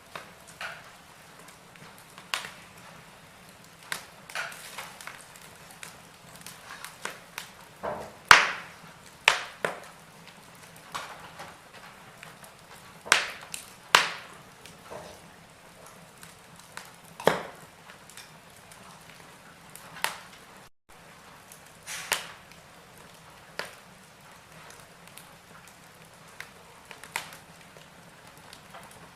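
Wood fire burning in a fireplace, crackling with irregular sharp pops and snaps over a faint steady hiss, a few pops much louder than the rest.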